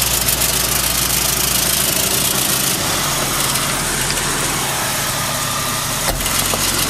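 Jeep Cherokee engine running steadily at low revs as the Jeep crawls over boulders, with a single sharp knock about six seconds in.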